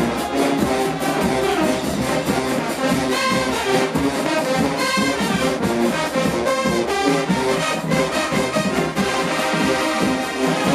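HBCU show-style marching band playing loudly: a full brass section of trombones and trumpets over a steady drumline beat.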